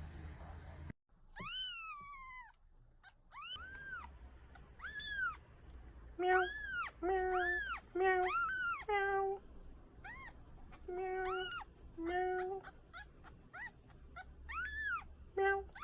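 Newborn kitten in its first week mewing over and over: thin, high cries that rise and fall, coming in a quick run in the middle.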